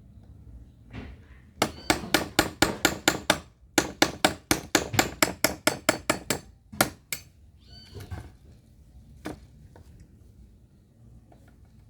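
Rapid hammer blows, about five a second, in two quick runs with a short pause between, then a few single knocks near the end.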